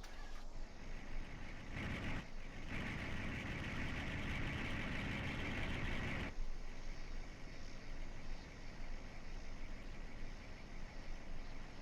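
Truck engines running, with a steady low rumble throughout. A louder stretch of engine noise starts about two seconds in and cuts off sharply about six seconds in.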